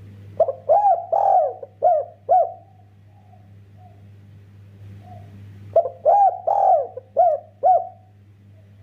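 Derkuku (spotted dove) cooing: two phrases of about five low, arched coos each, the second starting about six seconds in. A steady low electrical hum runs underneath.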